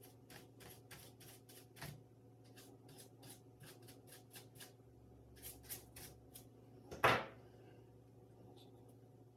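A run of small, light clicks, about three a second, then a single louder knock about seven seconds in, from hands working on a laptop's plastic casing during disassembly.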